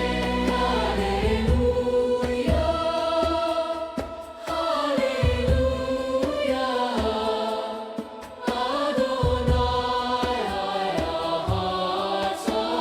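Choral music: a choir sings a slow, hymn-like song over instrumental accompaniment, with a deep bass swell about every four seconds. The voices drop away briefly twice.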